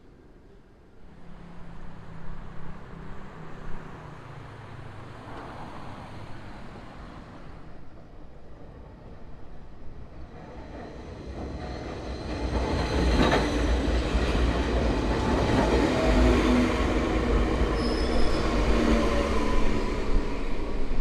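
Enoshima Electric Railway (Enoden) train passing close by: a deep rumble of wheels on rail that grows loud about halfway through and stays loud, with motor tones slowly falling in pitch and a brief high wheel squeal near the end.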